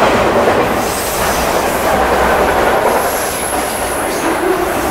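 Freight train of autorack cars passing at speed: the steady rumble and clatter of steel wheels on the rails, with a thin high whine above.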